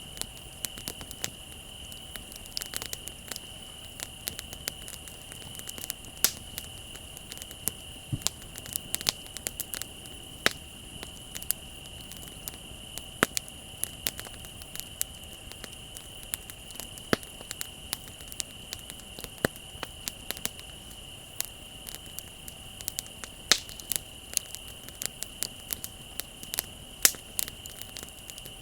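Wood bonfire crackling with frequent sharp, irregular pops, over a steady high trill of crickets.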